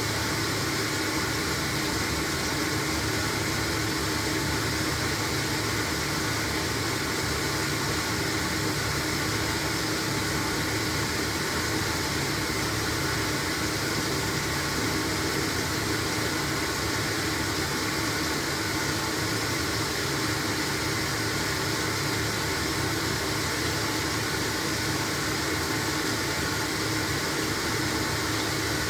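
LG washing machine running through a load of blankets: a steady, even noise with faint steady hums and no pauses.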